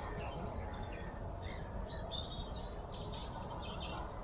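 Birds singing: scattered short chirps and whistles, with a steady low rumble underneath.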